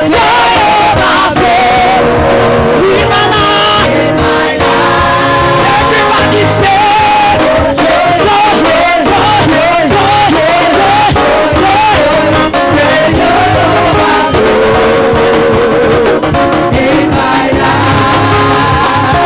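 Live gospel praise and worship music: singing voices over a band with bass and drums keeping a steady beat.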